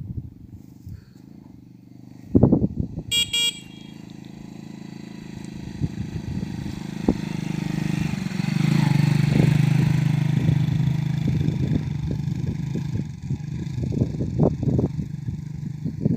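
Small motorcycle engine running, with a loud short burst about two seconds in and a brief horn beep just after; the engine then speeds up and settles into a steady run as the bike moves off.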